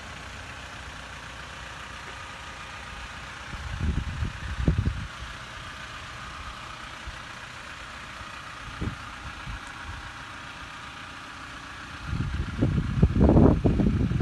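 Toyota Land Cruiser's 2.8-litre four-cylinder turbodiesel (1GD-FTV) running steadily at idle. Bursts of low rumble come about four seconds in and grow loud from about twelve seconds on.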